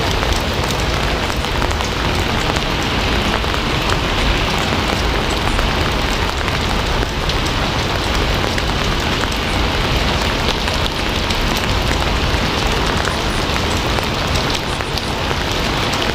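Steady rain falling, a continuous even hiss dotted with many small drop ticks.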